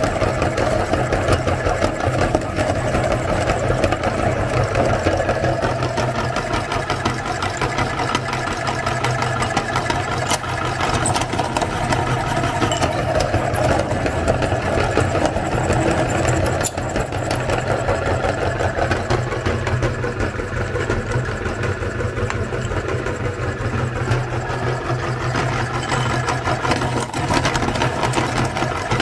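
Electric meat grinder running steadily under load as it grinds colored chalk, a constant motor hum with crackling from the chalk breaking up.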